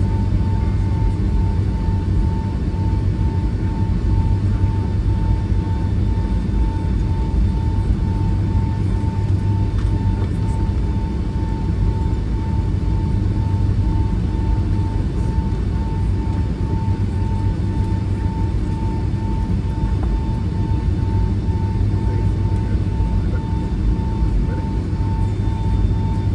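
Boeing 757-300 jet engines heard from inside the passenger cabin: a steady, loud low rumble, with a thin steady tone that pulses a few times a second.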